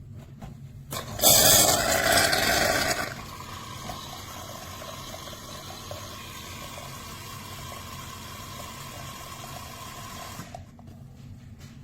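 De'Longhi Rivelia's milk frother steaming and frothing milk into the cup: a loud hiss for about two seconds, then a quieter steady hiss with a faint steady tone that stops about ten and a half seconds in.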